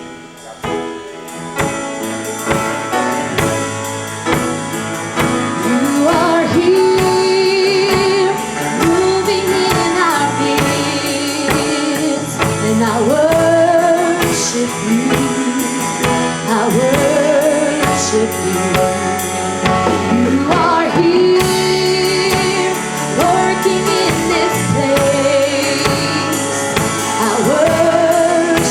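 Live gospel worship music: the band plays sustained chords and a singer comes in a few seconds in, singing a melody with vibrato.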